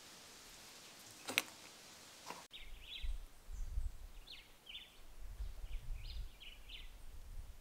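Small birds chirping in short repeated calls, over a low, gusting rumble of wind on the microphone. Before them, about a second in, a single sharp click.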